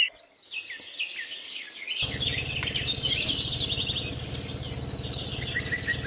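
Small birds chirping and twittering in quick, high calls. From about two seconds in, a steady low hum joins them and cuts off suddenly near the end.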